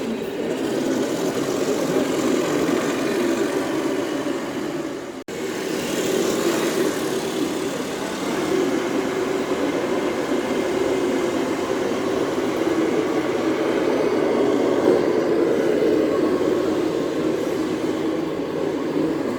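Engine sound from a radio-controlled scale model truck, running steadily. It breaks off for an instant about five seconds in.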